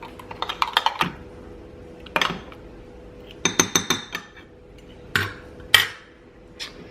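Seasoning mix being stirred into water: a utensil clinks quickly against the sides of the container in two short runs, with a few single knocks between them.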